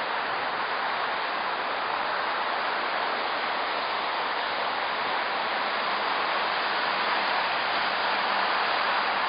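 Steady rushing noise of wind past the microphone while riding a bicycle, even and unbroken throughout.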